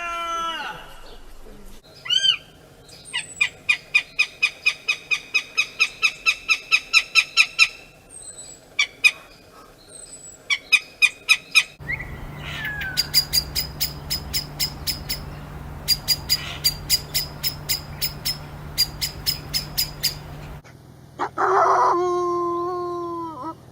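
A string of separate animal calls: quick runs of high chirps repeated about five times a second, then a faster series of sharp chirps over a low hum, ending with a single call that falls in pitch.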